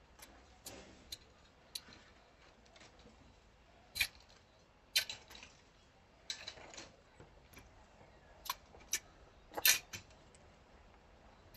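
Scattered clicks, taps and short scrapes of hand work with tools and materials, about a dozen separate sounds, the loudest a brief cluster near the end.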